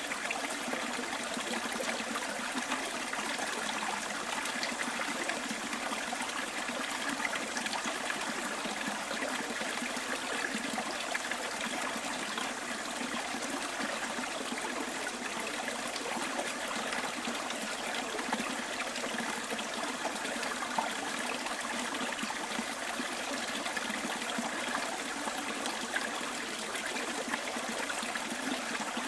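Stream water running and trickling steadily, a continuous even rush of flowing water.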